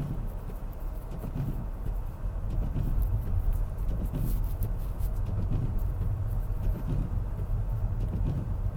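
BMW X3 driving on a snowy road, heard from inside the cabin: a steady low rumble of tyres and engine, with faint scattered clicks over it.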